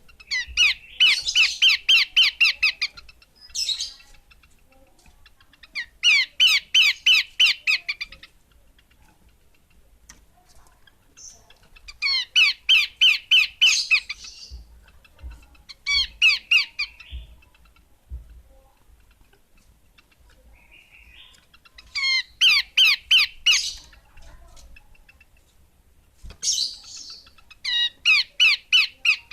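Female pelanduk semak (Horsfield's babbler) calling: loud bouts of fast, evenly repeated chattering notes, each lasting one to two and a half seconds and coming every few seconds, six times over.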